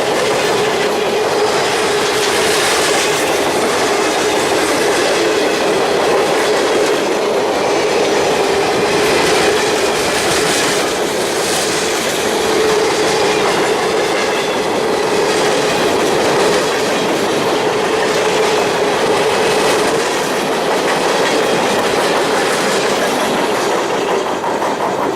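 Train cars rolling past at close range, a steady loud clatter of steel wheels over the rail joints.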